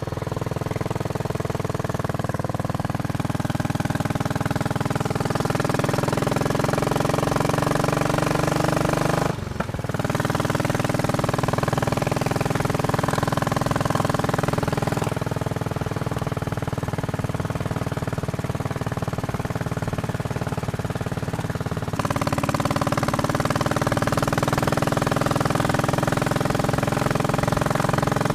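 Royal Enfield Bullet Machismo 500 single-cylinder engine running steadily under way. Its note breaks off briefly about a third of the way in, and its pitch shifts twice later on.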